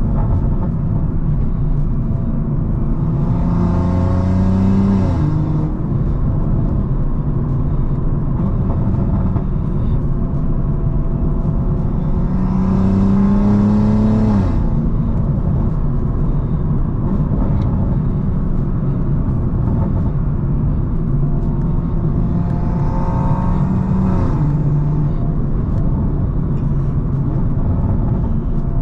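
Tuned 700-wheel-horsepower BMW M340i's turbocharged B58 inline-six accelerating hard three times. Each time the engine pitch rises under a hissing turbo whistle, then falls off suddenly as the pull ends. A steady engine and road drone runs between the pulls.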